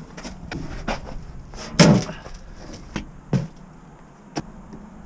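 The battery box of an old dump truck being opened and handled: a series of separate knocks and clunks, the loudest about two seconds in.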